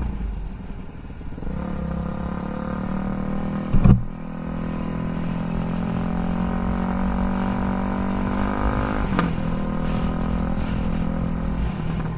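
Motorcycle engine running under way, its pitch climbing steadily for several seconds and then dropping suddenly, as at a gear change. A short loud knock comes about four seconds in.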